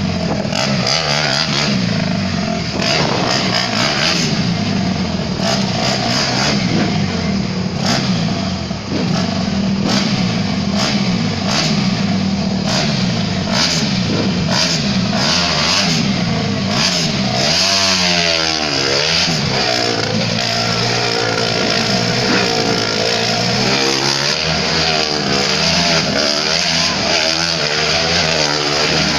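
Motorcycle engines running and revving without a break, their pitch swinging up and down over and over, with a rattling clatter throughout.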